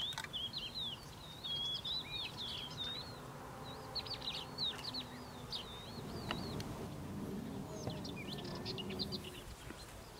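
Songbirds twittering: quick, sweeping high chirps in several bouts, over a faint low hum.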